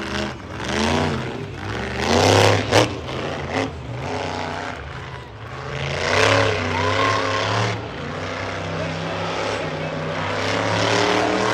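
Monster truck engine revving hard, its pitch swinging up and down with repeated stabs of throttle, then holding more steadily over the last few seconds.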